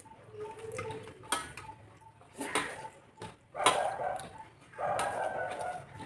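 Meal-time dish sounds: a few sharp clicks and clinks on a plate, about a second apart, then two longer stretches of rougher noise in the second half.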